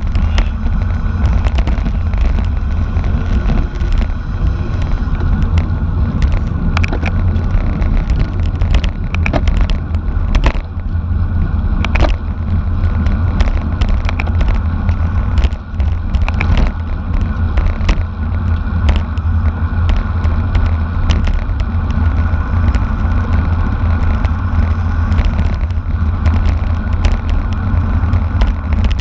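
Heavy wind rumble on the microphone of a camera riding along in a bicycle race, with frequent sharp clicks and rattles throughout.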